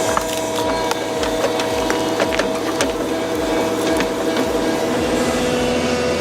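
Heavy machine engine running steadily with a low, regular throb, while wood cracks and splinters in scattered sharp snaps.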